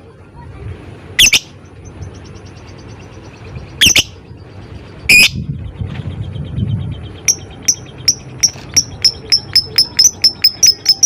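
Lovebird calling: three loud, sharp shrieks in the first half. From about seven seconds in comes a run of short, high clicking ticks (the lovebird's 'ngetik') that speeds up to about four a second.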